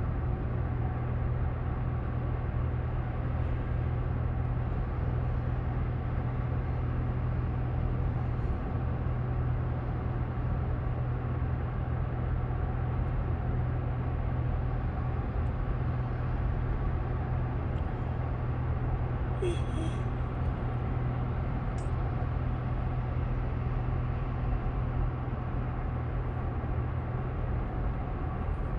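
Steady low road-and-engine rumble inside a moving vehicle's cabin, with a couple of faint brief clicks about two-thirds of the way through.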